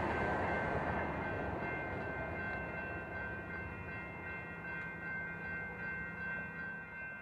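A passing train's rumble fading away as it draws off. About two and a half seconds in, a steady high ringing of several tones sets in and holds.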